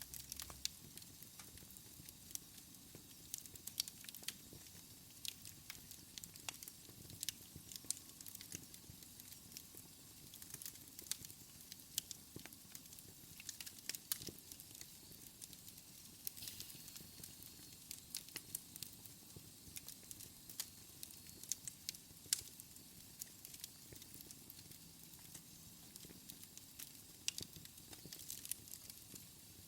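Wood fire in a fireplace crackling, with frequent sharp, irregular pops and snaps over a faint hiss of burning.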